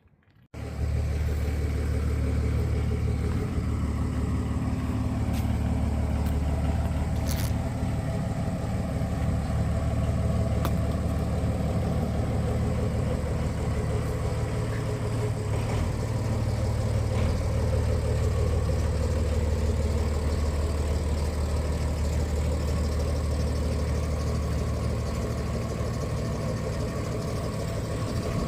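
An engine idling steadily, a low even hum that starts abruptly about half a second in, with a few faint clicks over it.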